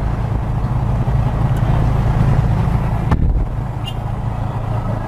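Car engine idling steadily, with a single sharp click about three seconds in.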